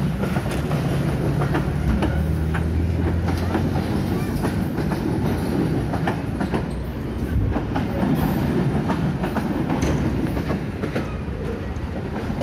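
Passenger train carriages rolling past close by: a steady low rumble with scattered clacks of the wheels over the rails.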